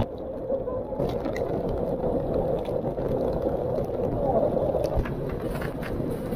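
A large waterfall close by: a steady, dense rushing of falling water, heavy in the low end.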